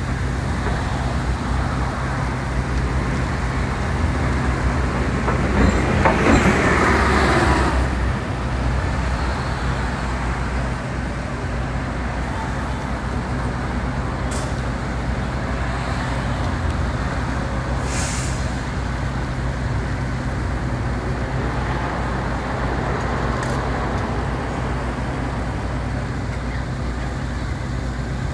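Steady low engine drone of a large road vehicle running, with traffic noise around it. About six seconds in it gets louder for a couple of seconds, as if another vehicle passes close by.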